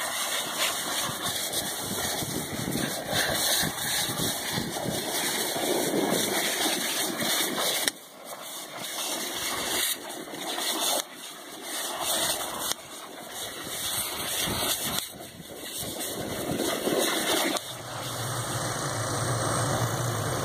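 Engine running under a dense rushing noise that drops off abruptly several times; near the end a steady low engine hum comes in.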